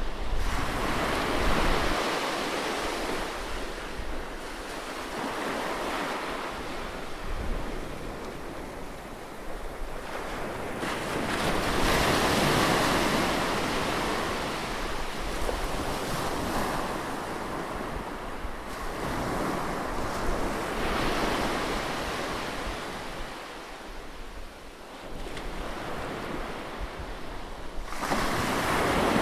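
Close-recorded seaside waves: surf breaking and washing up the shore in a steady rush that swells and ebbs every few seconds.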